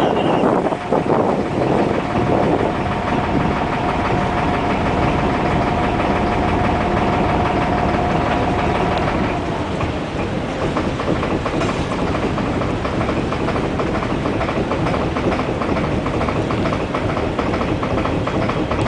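Small sampan boat's engine running steadily under way. A steady whine rides over it for the first half and stops about halfway through, leaving a fast, even engine beat.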